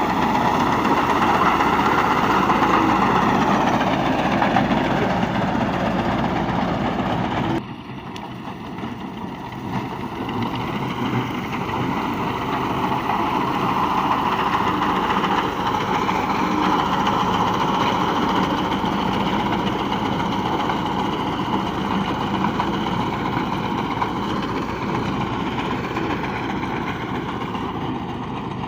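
Massey Ferguson tractor engine running steadily. About eight seconds in, the sound drops suddenly to a lower level, then slowly builds back up.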